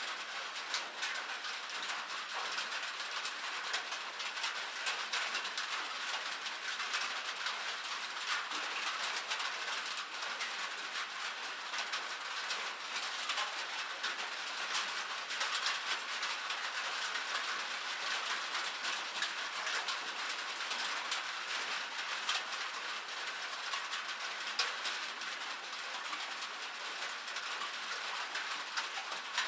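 Rain falling: a steady, dense patter of drops, heard as many small ticks over an even hiss.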